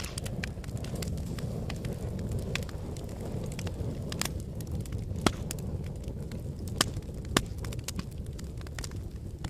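Wood fire burning in a fireplace: a steady low rumble of the flames with frequent crackles and pops, the sharpest snaps about five, seven and seven and a half seconds in.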